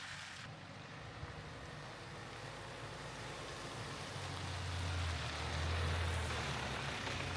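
A vehicle's engine hum and road noise that slowly grow louder, peaking about five to six seconds in.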